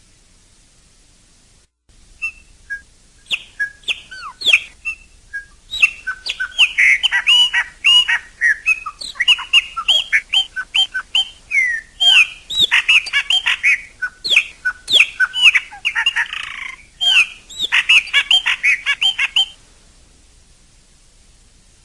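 Chopi blackbird (pássaro-preto) singing: a long run of quick, varied whistled notes and chirps, denser after the first few seconds, with a short harsh note near the end.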